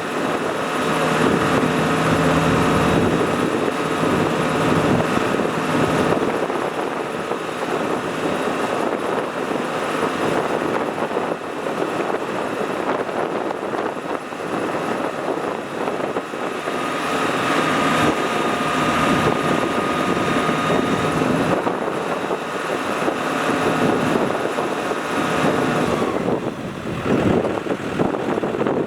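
Heavy farm machinery running: the diesel engines of a tractor and a rice combine harvester, steady and loud. A higher whine joins for a few seconds past the middle.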